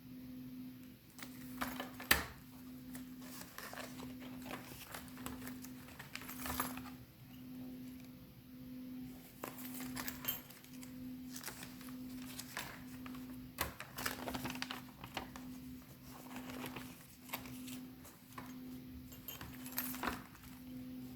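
Pages of a handmade ring-bound junk journal being handled and turned: repeated paper rustles with light clinks and jingles from its hanging metal embellishments. A sharp tap about two seconds in is the loudest.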